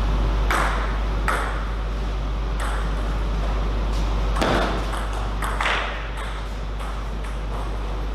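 Table tennis ball in a rally, sharp clicks of the celluloid ball on bat and table coming roughly once a second, over a steady low hum.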